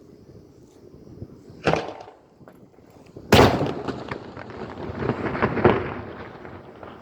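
Daytime fireworks battery: a single bang, then about two seconds later a louder bang followed by a dense crackling run of many smaller pops that fades out.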